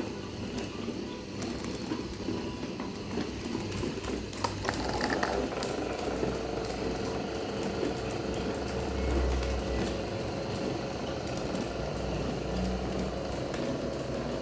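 Electric fan running with a homemade propeller blade, a steady whirring hum. About five seconds in, a steady tone joins the hum and holds.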